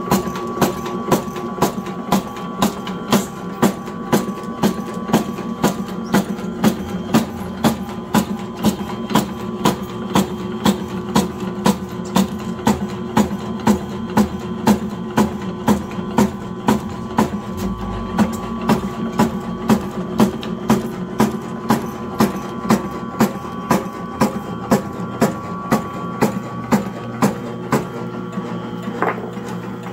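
Motorised herb-slicing machine running, its blade chopping about twice a second in an even rhythm over a steady motor hum.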